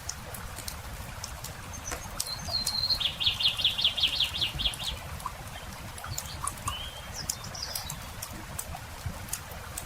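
Campfire crackling with scattered sharp pops over a low steady rumble, while a songbird sings a short note and then a rapid trill of about a dozen notes about three seconds in, followed by a few brief chirps later.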